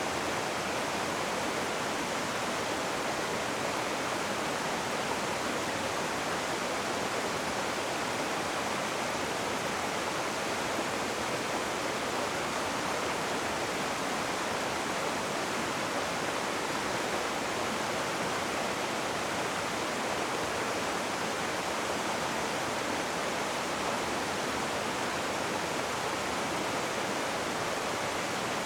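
Steady rushing of river water, an even, unchanging wash of noise.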